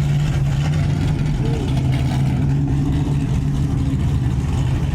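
Several performance car engines idling together in a steady, deep drone, with no revving.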